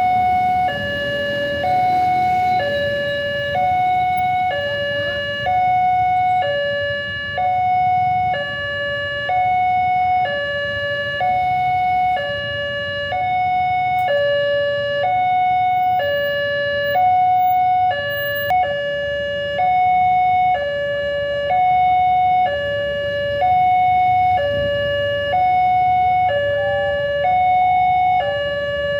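Railway level crossing warning alarm sounding an electronic two-tone signal: a higher and a lower tone alternate, each held about a second, repeating steadily. This is the warning that a train is approaching and the crossing is closing.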